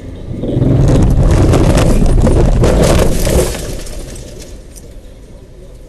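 A car collision on a dashcam recording: a loud rush of crunching and scraping noise that swells about half a second in, lasts about three seconds, then drops off sharply to a lower road rumble.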